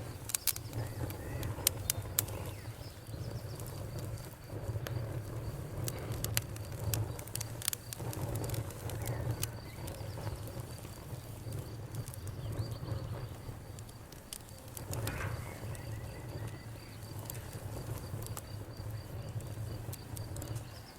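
Wood fire burning in a fireplace: irregular crackles and sharp pops, thickest in the first couple of seconds, over a low steady rumble of flame.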